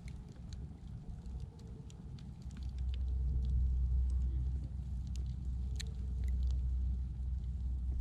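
Wood fire crackling with scattered sharp pops, over a low steady rumble that swells up about two and a half seconds in and stays.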